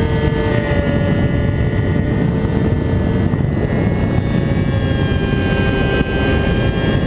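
Radio-controlled model airplane's motor and propeller running, a steady whine with its pitch shifting slightly a few times, over loud rushing wind noise on the microphone.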